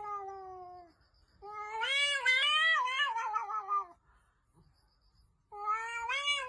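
Domestic cat meowing: a falling meow trails off at the start, then comes one long, wavering meow of about two and a half seconds, and another meow begins near the end.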